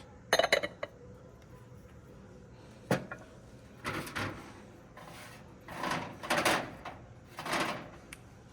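Objects being handled: a few light knocks in the first second and a sharp click about three seconds in, followed by three or four brief scraping, rustling sounds.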